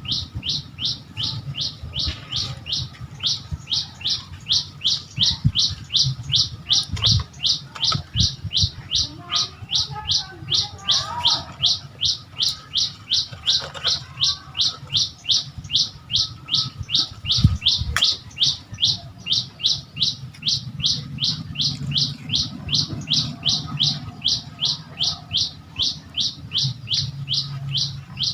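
A bird calling a short, high, downward-sliding chirp over and over, about three times a second, at an even, unbroken pace.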